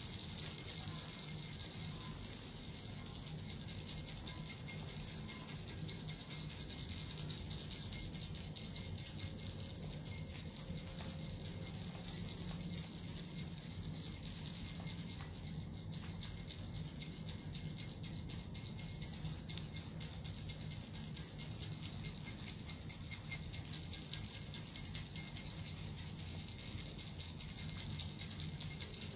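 Suzu bells and a metal rattle shaken without pause, an even, rapid jingling.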